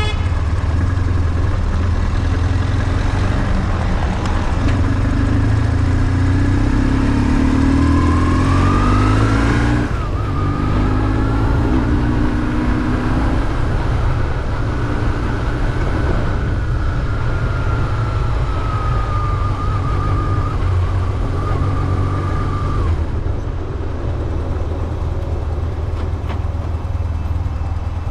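BMW R1150GS boxer-twin engine under way: the revs climb for about ten seconds, drop sharply as if for a gear change, pull up again briefly, then ease off and settle lower near the end.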